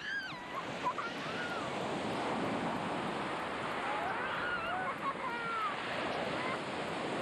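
Black Sea surf washing steadily onto the shore. A few short, faint gliding calls sound over it near the start and again about four seconds in.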